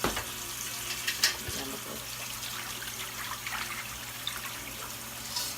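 Water running and pouring into a pan as it is filled for the roast, an even splashing hiss, with a few sharp knocks of handling near the start and about a second in.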